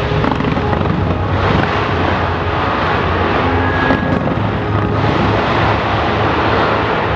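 Fireworks going off in a dense, continuous barrage of bangs and crackling, with a few sharper bangs standing out.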